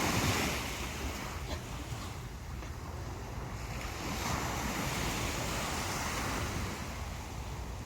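Sea waves breaking and washing up on a beach, surging once at the start and again about four seconds in, with a low rumble of wind on the microphone.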